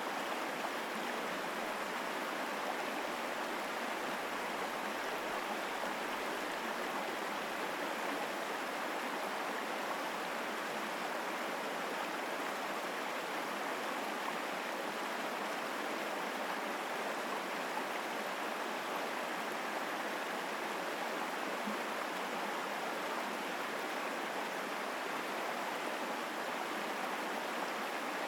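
Mountain stream flowing strongly through forest: a steady, unbroken rush of water.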